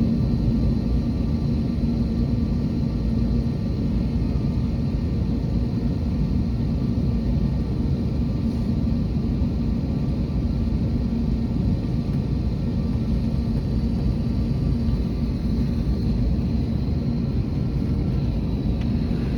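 Steady drone of an Airbus A321neo's jet engines: a constant low rumble with a steady low hum that does not rise or fall.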